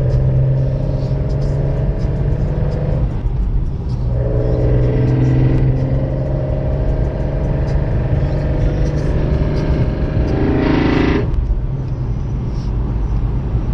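BMW E46 M3's S54 inline-six, fitted with individual throttle bodies and velocity stacks, running with a steady, loud drone whose pitch drifts slowly as the revs change. Near the end it gives a brief, brighter, harsher burst.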